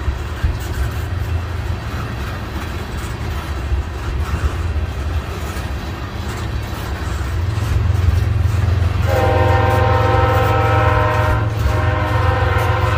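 Freight train of tank cars rolling past with a steady low rumble. About nine seconds in, a locomotive horn starts sounding a long, steady chord that carries on to the end, briefly dipping once.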